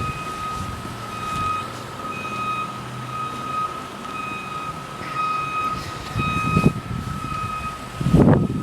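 A vehicle's electronic warning chime beeping over and over, roughly once a second, over a steady high tone. Some low thumps come in near the end.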